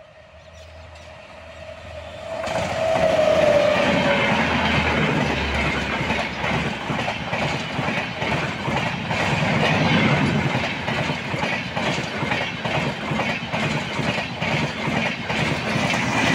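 Express train hauled by a WAP 7 electric locomotive passing at about 110 km/h. A long steady horn note sounds as it approaches. About two seconds in a loud rush takes over as the coaches go by, with a rapid clickety-clack of wheels over the rail joints.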